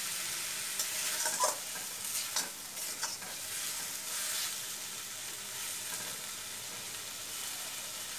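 Grated raw mango sizzling in oil in a stainless steel wok, stirred with a metal spatula that scrapes and clicks against the pan over the first four seconds or so. After that only a steady sizzle remains.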